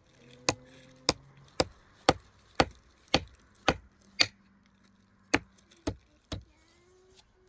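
Chopping with a blade, about a dozen sharp strokes at a steady pace of roughly two a second, with a pause of about a second after the eighth stroke.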